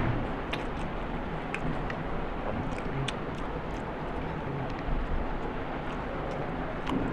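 A person eating, with scattered short clicks and smacks of chewing over a steady background noise.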